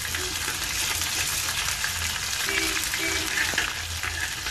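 Ginger-garlic paste, cumin and green chillies sizzling in hot mustard oil in a metal kadhai while being sautéed. A slotted metal spoon stirs the mixture and scrapes against the pan.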